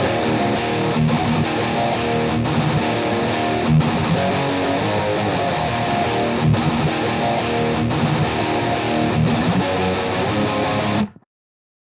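Distorted electric guitar playing a rhythm riff in drop-B tuning through a Seymour Duncan bridge humbucker, double-tracked, with a brief break about every second and a half. It stops abruptly about 11 seconds in, leaving silence.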